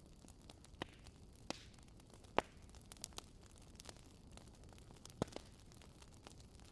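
Campfire crackling: irregular sharp pops and snaps, about seven in all and the loudest about two and a half seconds in, over a low steady hiss of the burning fire.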